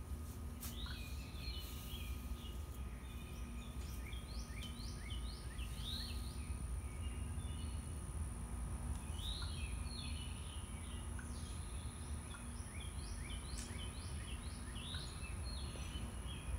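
Background birds chirping in intermittent bursts of short, quick notes over a steady low outdoor rumble, with a faint constant high-pitched tone throughout.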